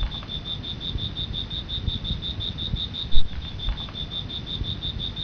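Crickets chirping in a steady, even pulse of about seven chirps a second, over a low rumble with a thump about three seconds in.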